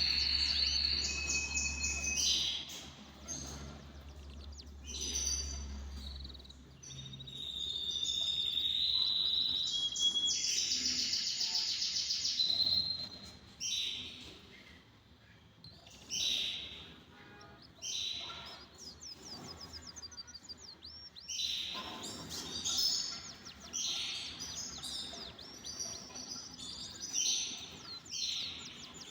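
Canaries singing: fast trills and warbled phrases, high-pitched and coming in bursts with short pauses between them.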